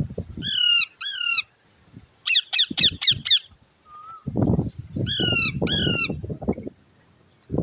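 Parrots squawking: two harsh calls, then a quick run of about five, then two more near the end. Crickets keep up a steady high chirring behind them.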